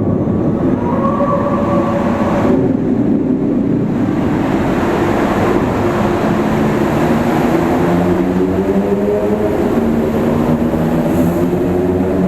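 Steady rush of wind and road noise while riding a bicycle, with a motor vehicle's engine hum sliding slowly up and down in pitch through the second half.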